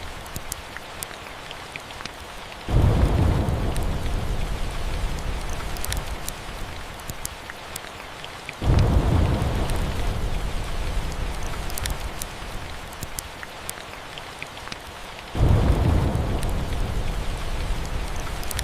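Steady rain with three rolls of thunder, each breaking in suddenly, low and loud, and fading over several seconds, the first about three seconds in, then about every six seconds. Faint scattered crackles of a wood fire run through it.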